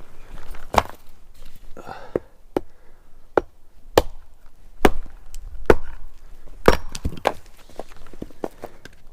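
Kindling being split with an axe: a string of sharp chopping strikes into small pieces of wood, about one a second at an uneven pace.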